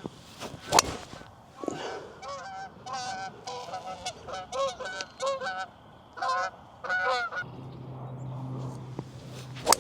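Geese honking, a dozen or so short calls in quick succession, then a low steady hum comes in. A sharp crack sounds near the end.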